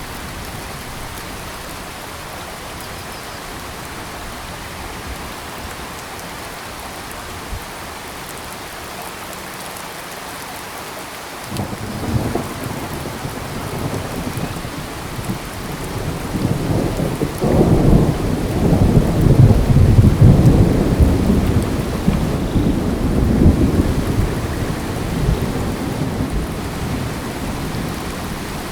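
Steady rain falling. About eleven seconds in, a long, deep rolling rumble of thunder sets in, builds to its loudest around two-thirds of the way through, then slowly dies away under the rain.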